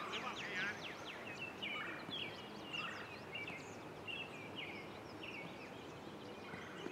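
Birds chirping: many short, high chirps and quick pitch sweeps over a steady background hiss.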